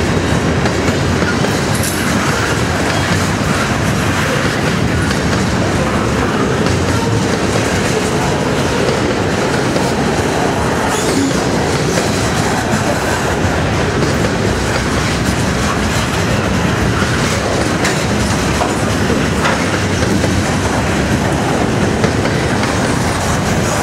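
Freight cars of a Canadian National train rolling past at close range: steady noise of steel wheels on the rails.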